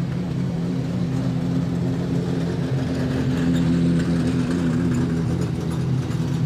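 Car engines running steadily at low revs, a deep, even drone with a slight waver in pitch.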